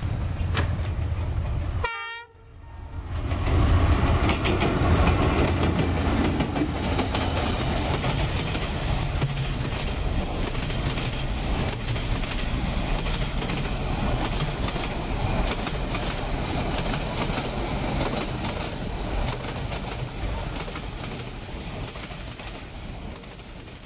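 Train passing close by: a steady rumble and clatter of wagons on the rails that builds about three seconds in and slowly fades near the end.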